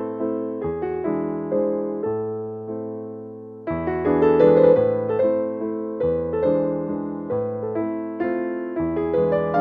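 Background piano music: a gentle waltz, with melody notes over a bass line that changes about once a second.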